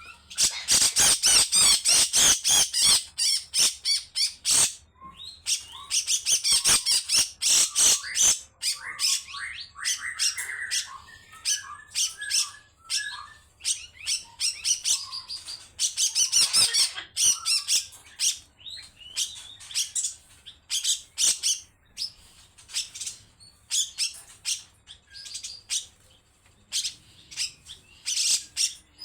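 Cucak jenggot (grey-cheeked bulbul) giving long harsh rasping call runs, each a rapid string of scratchy high notes, with short pauses between runs.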